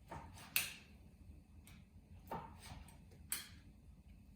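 Knife slicing a cooked chicken breast thin, the blade knocking on the cutting board at each cut: three sharper knocks, about half a second in, just over two seconds in and near three and a half seconds, with lighter taps between.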